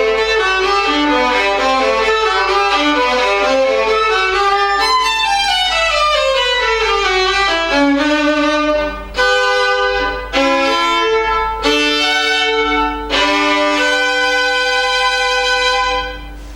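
Solo violin with piano accompaniment, playing a rapid run of notes that sweeps downward, then four separate accented chords and a long held final note that closes the piece.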